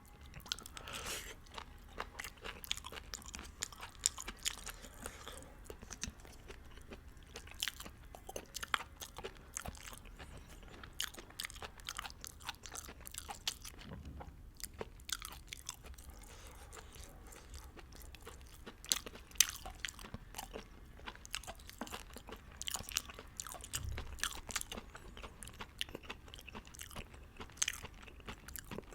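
Close-miked chewing and biting of Vietnamese beef hot pot noodles: a continuous, irregular run of wet mouth clicks and small crunches.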